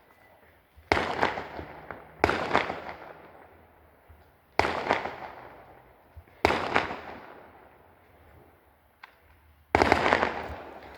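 Fireworks going off: five sharp bangs spaced unevenly a second or two apart, each fading out over a second or so.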